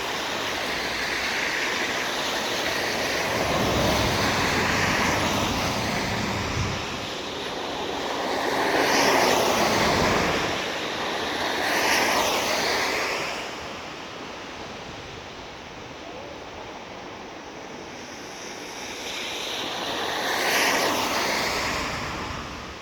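Cars driving past on a rain-soaked road, their tyres hissing through the water and throwing up spray. Several passes swell and fade, the loudest about nine seconds in.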